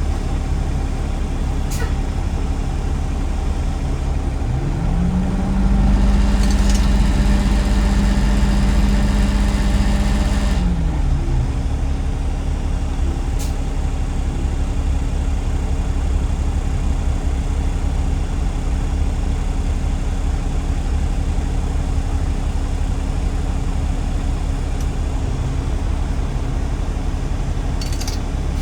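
Garbage truck engine running with a steady low rumble. About five seconds in, the engine note rises and holds for several seconds under acceleration, then drops back to a steady drone.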